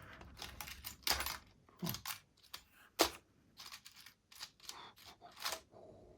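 Small metal spare parts for a model locomotive clicking and clattering as they are rummaged through and handled, a quick run of light sharp clicks with the loudest about three seconds in.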